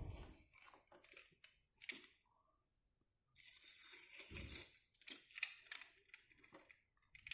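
Fiberglass wallcovering being cut with a craft knife and torn away: faint, irregular scraping and tearing rustles, with a second of silence partway through.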